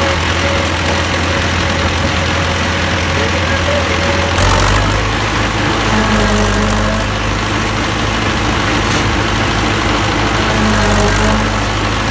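HMT 5911 tractor's diesel engine running steadily under the drive of a maize machine, its note shifting to a slightly different steady pitch about four seconds in.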